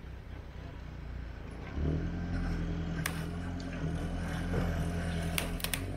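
Off-road 4x4 engine revving up about two seconds in and held at higher revs while the vehicle, stuck on a snowy, muddy slope, makes no headway. A few sharp clacks come near the middle and near the end.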